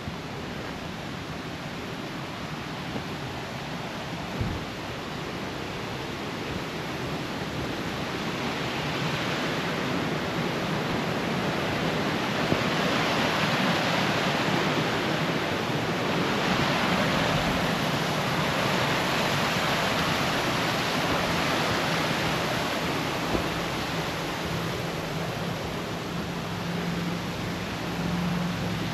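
Rushing creek water: a steady white-noise rush that grows louder over the first dozen seconds, holds, then eases off again.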